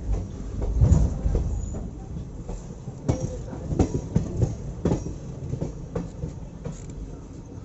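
Railway passenger coach running along the track, its wheels knocking over rail joints with a low rumble underneath. The rumble is loudest about a second in.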